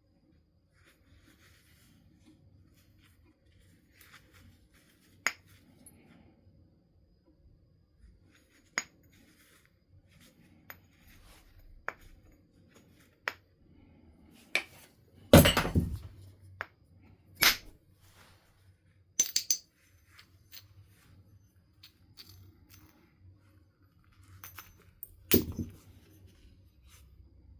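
Flintknapping: a stone nodule struck with a knapping tool, heard as scattered sharp clinking taps and two heavier blows, one about halfway through and one near the end.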